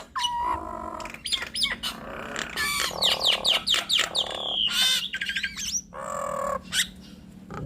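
Nias hill mynas calling: a busy run of short whistles sliding down in pitch, sharp clicks and harsh squawks, with a longer held whistle about four seconds in.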